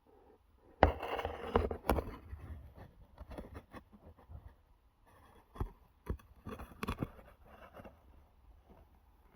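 Irregular knocks, clicks and scraping of hand work with tools or parts, the loudest knock about a second in and a second run of sharp knocks between about five and a half and seven seconds in.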